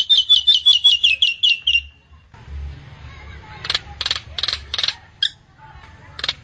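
Nias hill myna calling: a rapid run of about ten notes falling in pitch, then after a short pause a series of harsh notes about three a second.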